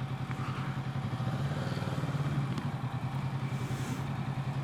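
Kawasaki Z650's parallel-twin engine idling steadily, picked up by a helmet-mounted microphone.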